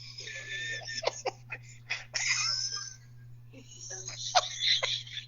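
Indistinct, breathy voices and laughter over a live-stream's audio, with scattered short clicks and a steady low electrical hum underneath.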